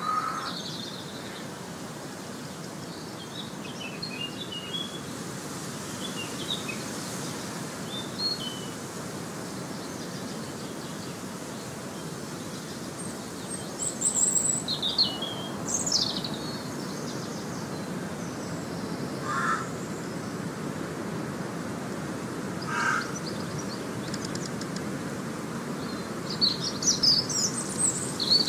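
Outdoor ambience of songbirds chirping in scattered short bursts over a steady low rushing background, with two lower bird calls about three and a half seconds apart past the middle.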